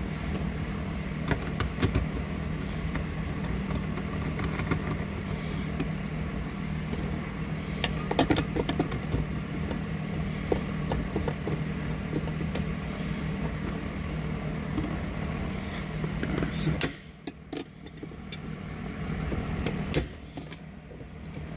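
Scattered metallic clicks and clinks of hand tools on the 12 mm nuts of a shifter bushing plate, over a steady low hum that drops away abruptly about seventeen seconds in.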